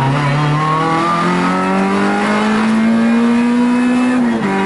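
Rally car engine heard from inside the cabin, pulling hard under acceleration. Its pitch climbs steadily for about four seconds, then drops sharply near the end at an upshift.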